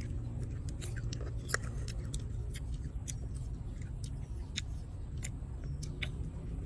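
Close-up eating sounds: chewing with scattered short clicks and mouth smacks, over a steady low hum.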